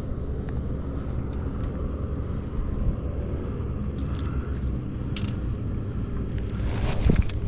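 A boat motor running steadily at low revs, a continuous low rumble, with a few light clicks and a louder knock near the end.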